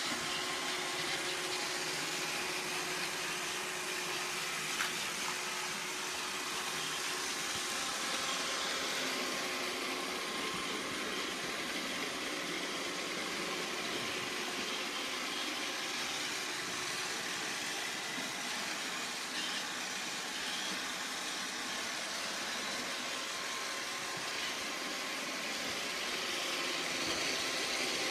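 iRobot Roomba 780 robot vacuum running, a steady whir from its vacuum motor and brushes with a high hiss, getting slightly louder near the end.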